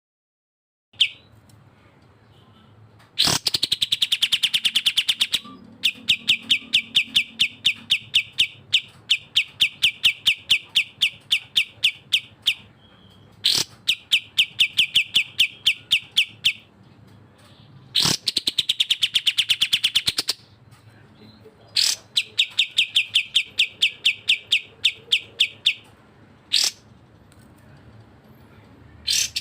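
Cucak jenggot and kapas tembak songbird song: long bursts of rapid, evenly repeated high chattering notes, each burst lasting a few seconds, with short gaps between them. Several bursts open with a sharp click.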